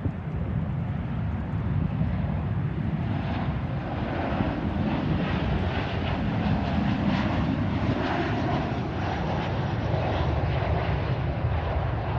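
Jet airliner engines heard as a plane passes: a steady low rumble, with a broad roaring hiss that swells up about three seconds in and holds for most of the rest.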